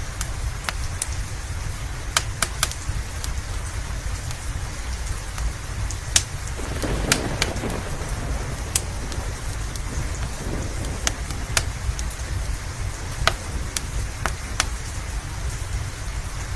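Steady rain with a crackling wood fire, scattered sharp pops from the fire over a low constant rumble. A brief swell of rushing noise comes about seven seconds in.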